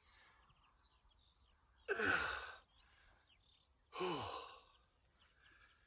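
A man's two breathy, groaning exhalations, each falling in pitch and about two seconds apart: effortful sighs from straining through the last repetitions of a resistance exercise.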